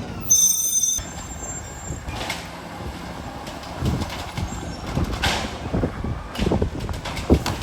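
Garbage truck at work: a short hiss about half a second in, then irregular metallic clanks and knocks with some squealing over a low engine rumble.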